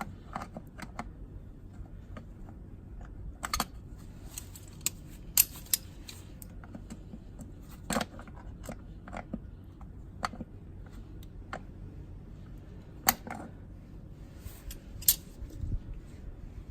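Irregular metallic clicks and taps of tools and engine parts being handled during motorcycle engine work, with a few sharper knocks spread through.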